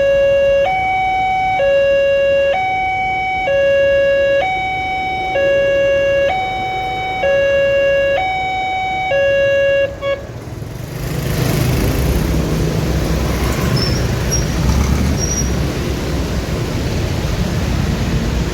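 Electronic two-tone alarm of an automatic railway level crossing, switching between a lower and a higher tone just under once a second, then cutting off suddenly about ten seconds in. Road traffic noise swells up right after.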